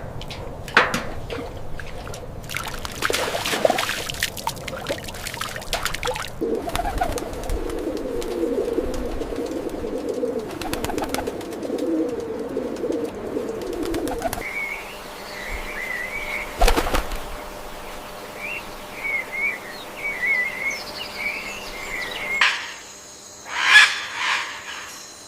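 Birds calling: a dense, low, wavering cooing for several seconds, then scattered high chirps. A few sharp knocks are heard, and there is a louder burst near the end.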